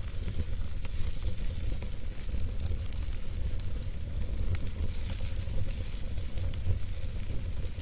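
Fire burning in a fireplace: a steady low rumble and hiss with scattered small crackles and pops.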